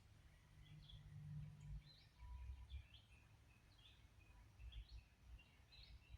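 Near silence, with faint birds chirping now and then over a low rumble.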